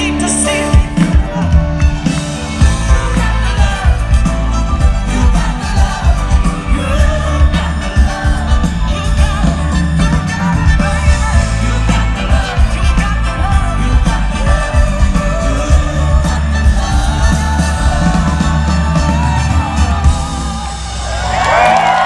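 Dance anthem performed live with a symphony orchestra: a steady kick-drum beat under sustained orchestral chords, with a vocalist singing over it.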